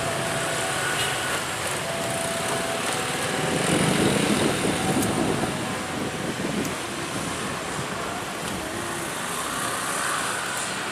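Road traffic noise with a small engine passing close by, loudest about four seconds in.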